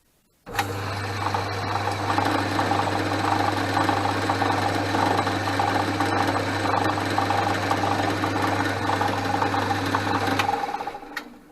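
Portass Model S mk2 lathe switched on about half a second in and running steadily with a low hum while a start drill in the tailstock chuck bores a start hole in round bar; switched off about ten seconds in and running down.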